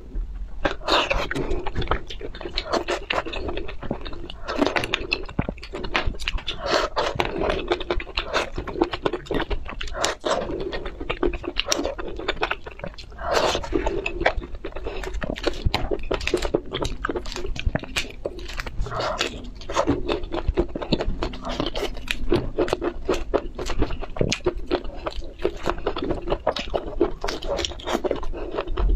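A person chewing seafood close to the microphone: dense, irregular crunching and crackling, with scraping as food is picked up from the tray.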